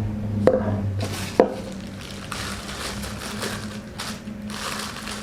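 Hard plastic parts being handled and knocked together, with two sharp clicks about half a second and a second and a half in, followed by rustling and crinkling of packaging.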